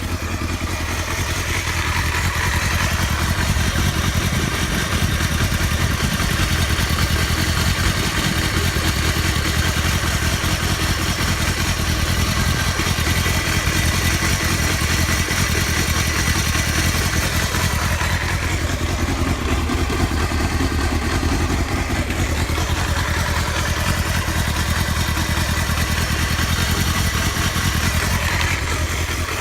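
Honda Hornet 250's inline-four engine running steadily with an abnormal noise the owner cannot identify.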